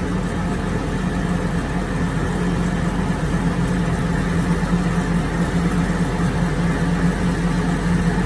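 Motor vehicle running steadily, a continuous low drone.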